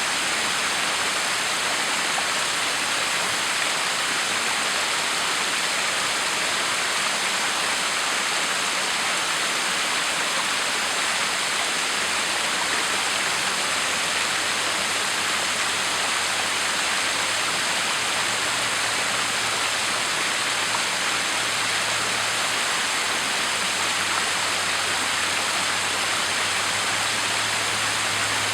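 Backyard waterfall: water pouring and splashing in a steady, even rush.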